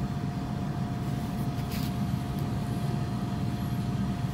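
Steady low mechanical hum with a thin steady whine over it, typical of HVAC machinery running on a rooftop.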